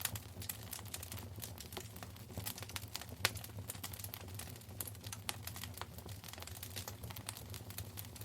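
Wood fire crackling in a fireplace: a dense, irregular run of small pops and snaps, with one louder snap about three seconds in, over a low steady hum.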